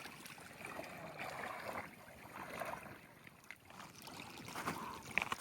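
Seawater splashing and lapping in uneven swells, with a small sharp click near the end.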